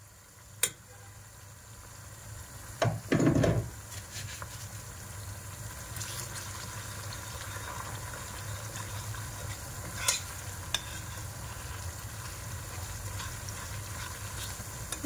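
Onions, red pepper paste and spices sizzling gently in a steel pot while a metal spoon stirs them, with a few light clinks of the spoon against the pot and a louder scraping stretch about three seconds in.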